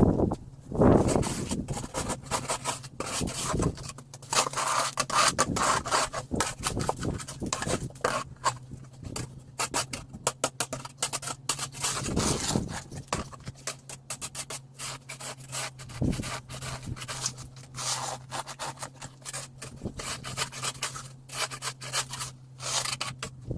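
Snow shovel scraping and pushing through snow in irregular strokes, over a steady low hum.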